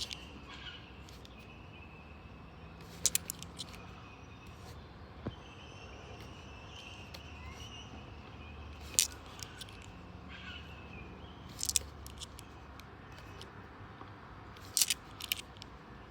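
Australian $2 coins clinking against one another in several sharp, brief clinks a few seconds apart as they are handled and sorted, over faint birdsong.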